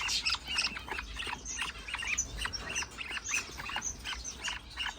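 Many caged birds chirping at once, budgerigars among them: a dense, steady run of short overlapping calls.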